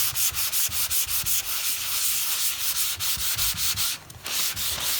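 Sandpaper on a hand sanding block rasping over a primed steel car roof in quick back-and-forth strokes, about five a second, with a brief pause about four seconds in. It is dry block sanding of the primer to take off the guide coat and find scratches and low spots.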